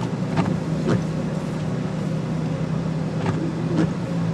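Jeep TJ driving, its engine and road noise making a steady low drone inside the cab, with a few faint clicks.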